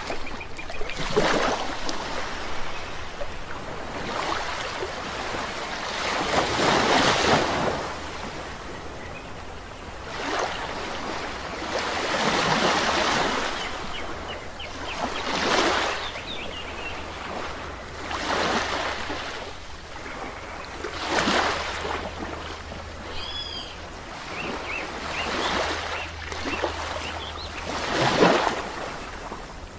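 Small sea waves breaking and washing up the shore, one swell every two to three seconds, with a few faint bird chirps about two-thirds of the way through.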